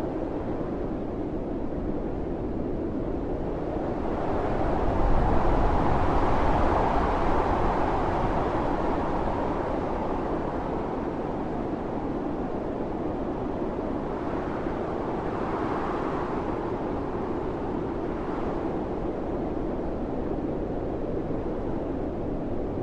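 Blizzard wind howling in gusts, with a stronger gust building about four seconds in and slowly easing off, and smaller swells later on.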